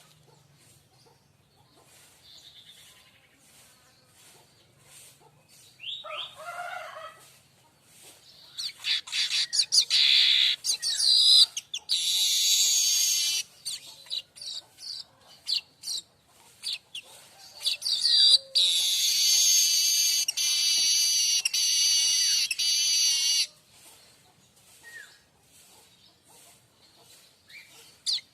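Streaked weaver (manyar kembang) singing: scattered short high chirps, then two long spells of loud, rapid, wavering trilled song, one about twelve seconds in and a longer one from about eighteen to twenty-three seconds.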